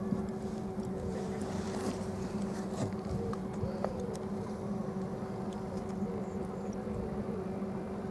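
Electric boat motor running with a steady hum at two constant pitches, over a rush of wind and water.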